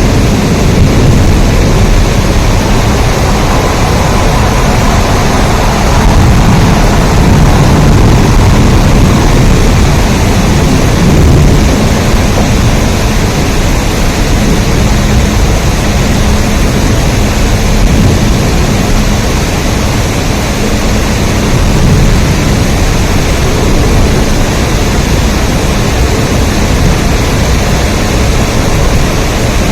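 Steady, loud heavy rain, an even wash of noise with a deep rumble underneath.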